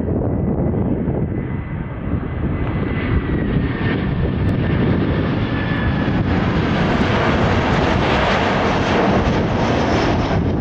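Jet engines of a Boeing 737-800 (CFM56-7B turbofans) on a crosswind landing approach, growing louder and brighter as the aircraft nears, with a deep rumble and a faint whine that slides slightly down in pitch.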